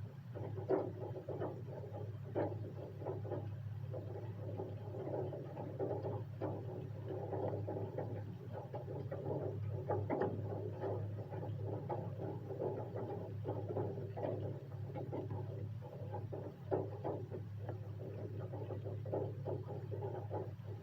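Raindrops falling in an irregular patter of many small ticks, over a steady low hum.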